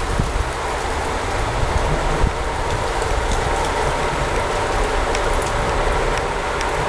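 Heavy thunderstorm rain pouring steadily, with scattered sharp drop ticks close by.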